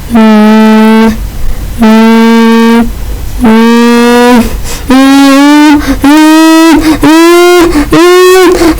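A run of loud, buzzy sustained tones, each with a slight scoop up at its start. The first notes last about a second each at one low pitch; from about halfway through, each note steps higher and they come shorter and faster.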